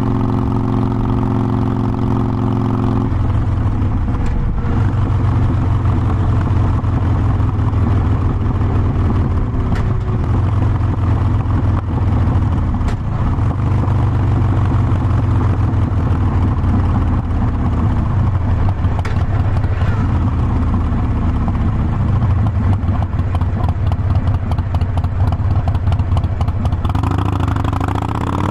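Harley-Davidson Forty-Eight Sportster's air-cooled V-twin engine, running steadily at idle for about three seconds, then under way on the road, its pitch rising as it accelerates near the end.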